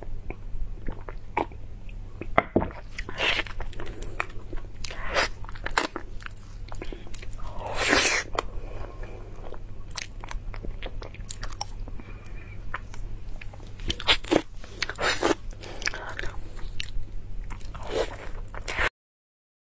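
Close-miked mukbang eating sounds: a person biting and chewing soft durian flesh, with many wet mouth clicks and smacks and one louder wet burst about eight seconds in. The sound cuts off abruptly near the end.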